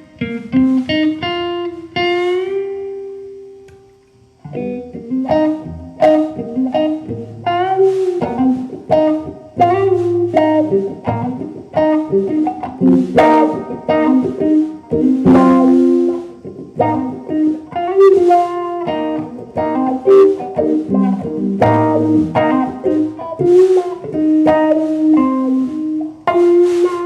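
Guitar played solo, a steady run of plucked notes and chords. About two seconds in, one note is left ringing and fades almost to nothing before the playing starts again.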